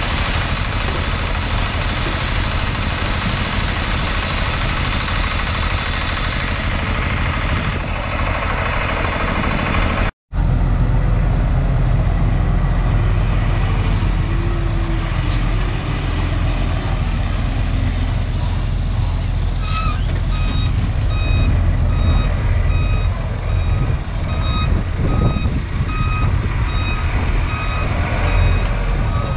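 Heavy diesel earthmoving machinery running steadily under load. From about two-thirds of the way through, a reversing alarm beeps repeatedly over the engine noise.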